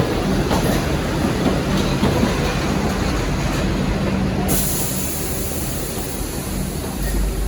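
Diesel-hauled V/Line N-class passenger train running, a steady low engine note over rolling wheel and track noise, with a rise in hiss about halfway through.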